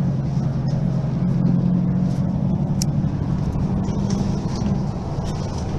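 Mercedes-Benz Citaro facelift city bus's diesel engine running with a steady low drone. A single short tick about halfway through.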